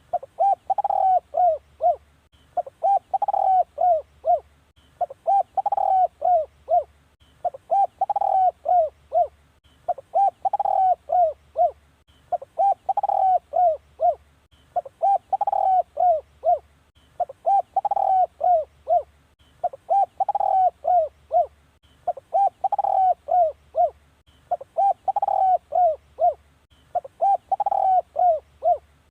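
Spotted dove cooing: a phrase of several short coos, the first ones run together and the last ones spaced out, repeated at an even pace about every two and a half seconds.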